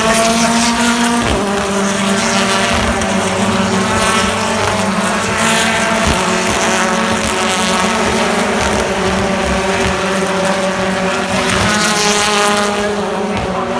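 British Touring Car Championship race cars' turbocharged two-litre engines running hard at speed. The engine note holds mostly steady, dips slightly about a second in and climbs again near the end.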